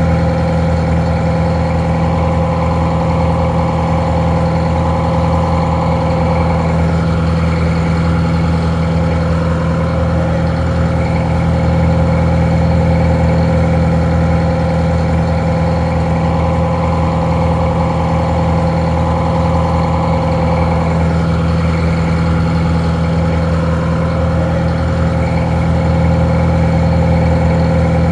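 Detroit Diesel 4-71 two-stroke diesel engine idling steadily. It sounds a little muffled.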